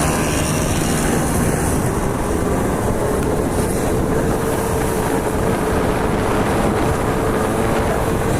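A small dirt bike running at steady speed: a faint, steady motor note that rises slightly, under loud rushing noise.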